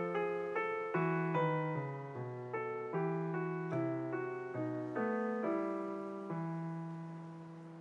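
Background piano music: a gentle melody of struck notes over low bass notes, slowing near the end into a held chord that fades.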